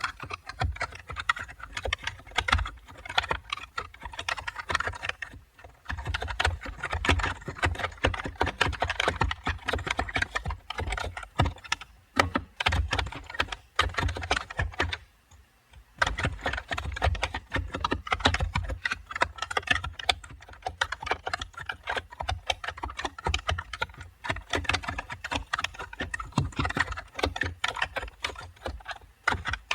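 Computer keyboard being typed on in fast, continuous runs of keystrokes. There is a short break about five seconds in and a pause of about a second halfway through.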